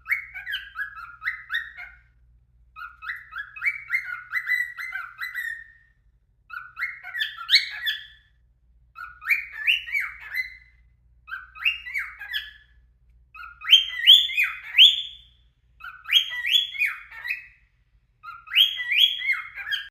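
Male cockatiel whistling, repeating a short phrase of quick upward-sliding notes about eight times with brief pauses between.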